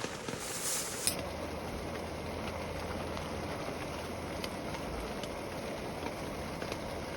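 Steady rain falling, with scattered ticks of single drops; from about a second in a low steady hum runs underneath.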